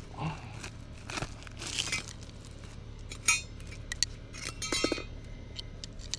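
Hands-on yard work: scattered rustling with a few light metallic clinks, the sharpest about three seconds in and another near the end.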